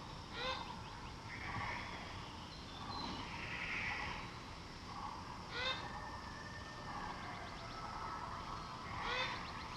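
Maroon oriole calling: three short calls a few seconds apart, over a faint forest background of other birds and insects.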